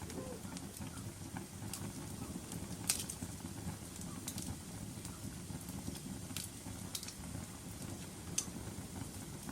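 Fireplace fire crackling: a low steady rush of flame with scattered sharp pops, the loudest about three seconds in.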